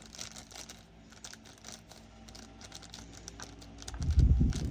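Quick, irregular clicking and rattling of small plastic diamond-painting drills and their packets being handled, with light crinkling. A louder run of low knocks on the table comes near the end.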